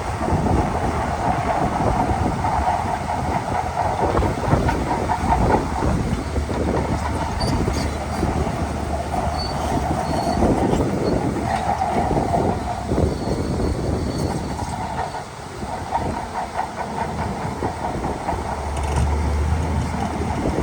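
Shantui DH17 crawler bulldozer working: its diesel engine runs under load while the steel tracks clatter and clank steadily, with a few brief faint high squeaks in the middle.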